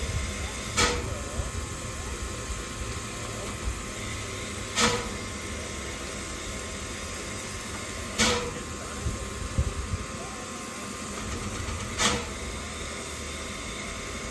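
Steam locomotive standing in steam, hissing steadily, with a short sharp beat about every four seconds, four times.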